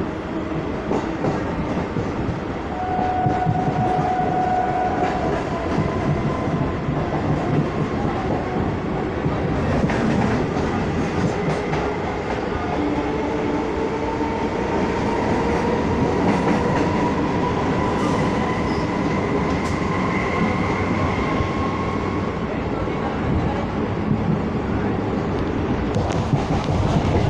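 Suburban EMU local train running on the rails, heard from inside the carriage: a steady rumble of wheels on track with occasional rail-joint clicks, and a faint motor whine slowly rising in pitch as the train picks up speed out of the station.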